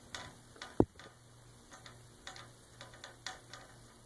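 Budgie pecking and knocking its small toy basketball: a run of light, irregular taps and clicks, with one louder knock about a second in.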